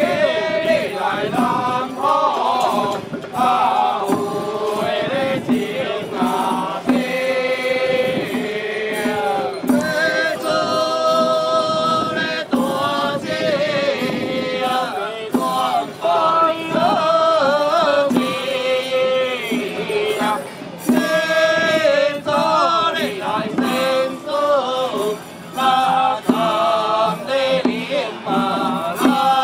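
Ritual chanting with music: a voice intones long, wavering sung notes that continue with only brief breaks.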